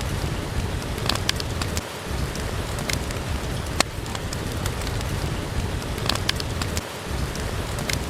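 Steady rain with a deep rumble under it, and scattered sharp crackles from a wood fire in a fireplace.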